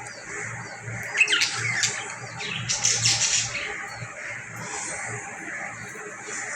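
A pet parrot squawking: two harsh calls, the first about a second in with a falling pitch, the second about three seconds in.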